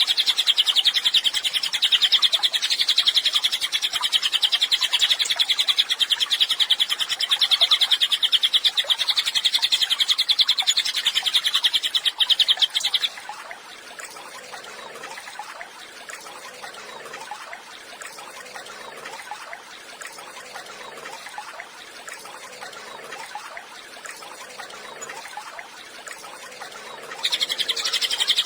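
Cililin bird song: a loud, very rapid, high trill held for about thirteen seconds, then breaking off to a quieter stretch of faint, softer sounds, before the fast trill starts again near the end. This is a tutor song played for training caged songbirds.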